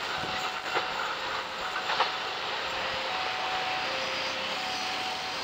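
Passenger train rolling away along the track, a steady rumble and rail noise, with two sharp clicks about a second apart early on. A faint two-note tone sounds on and off, alternating between a higher and a lower pitch.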